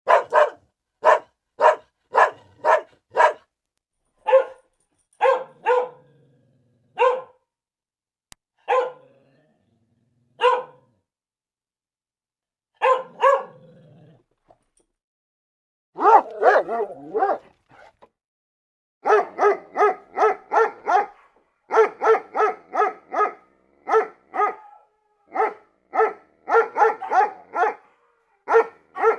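Dog barking again and again. A quick run of barks opens, followed by single barks with gaps of a second or more between them. After about 19 seconds the barks come in fast runs of roughly three a second.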